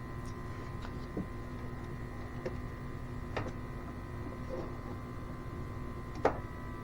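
Smoke diagnostic machine running during an EVAP leak smoke test, a steady hum with a higher whine, with a few light clicks and taps scattered through it.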